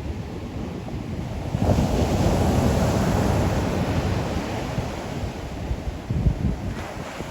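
Ocean waves breaking on the shore. A wave crashes about one and a half seconds in and slowly washes out, and a second, smaller surge with a low thump comes near the end.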